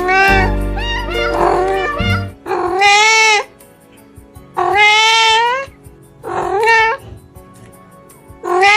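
Background music for about the first two seconds, then a cat meowing loudly: three drawn-out meows, each rising then falling in pitch, the third shorter, and a fourth beginning near the end.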